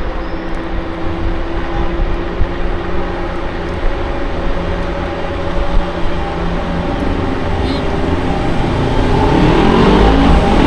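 Wind rushing over the microphone on a moving electric scooter, over a steady motor whine that rises in pitch near the end as the scooter speeds up.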